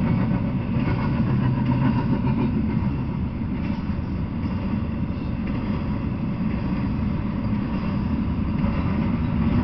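Double-stack intermodal freight train rolling past: a steady rumble of well-car wheels on the rails.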